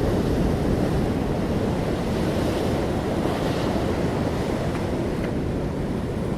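Ocean surf: waves washing steadily onto a shore, a continuous deep rushing with a gentle swell and fall.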